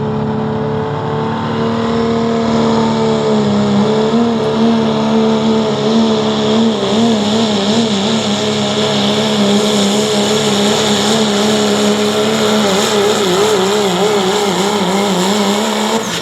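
Diesel engine of a 2001 Dodge Ram pulling truck running hard at high revs under load, a loud steady note. About halfway through, its pitch begins to waver quickly up and down.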